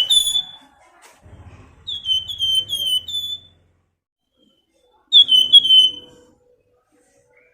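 A flamboyan songbird whistling in short phrases of three or four quick, falling notes, about three phrases with pauses between them; this is the shrill drawn-out 'nyiul' whistling of a bird in full song (gacor).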